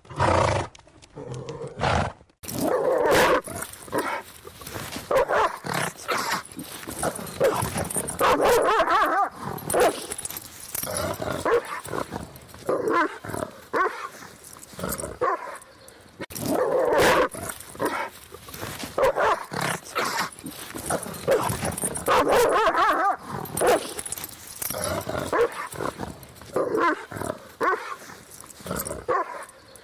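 A short horse call in the first two seconds, then dogs barking and growling in loud, irregular outbursts every second or two.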